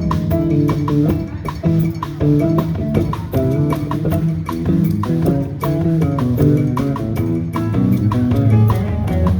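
A band playing live: a steady drum beat with sharp regular strikes under bass and guitar notes.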